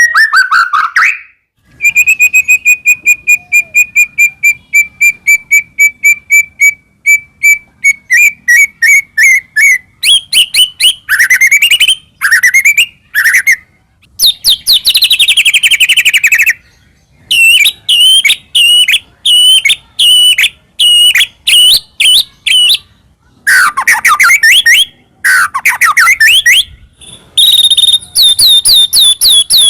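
White-rumped shama (murai batu) singing loudly in full song. It opens with a long, fast run of repeated sharp notes that speeds up, then moves into sweeping rising and falling whistles and rapidly repeated phrases.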